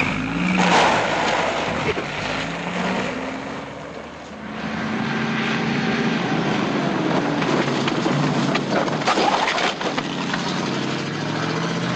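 A motor vehicle's engine running, its pitch rising and falling, with a loud noisy burst about a second in.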